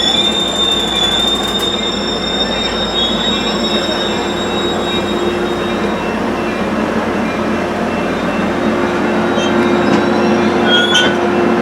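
Train rolling along the rails with a high-pitched wheel squeal that fades out after a few seconds, leaving a steady rumble.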